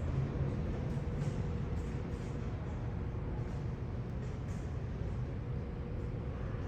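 Steady low rumble of a vehicle, with a faint steady hum above it.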